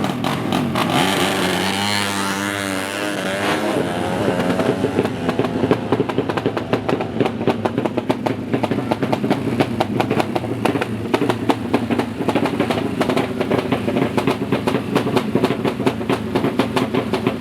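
Yamaha MX drag-racing motorcycle's single-cylinder engine, fitted with a double exhaust, revving up and down for the first few seconds. It then runs on with a rapid, uneven pulsing.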